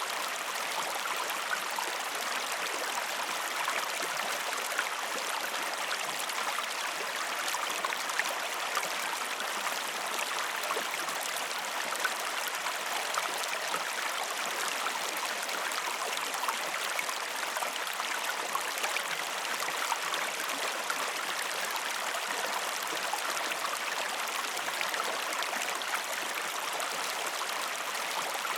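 River or stream water flowing steadily, an even rushing and babbling with fine splashes and no pauses.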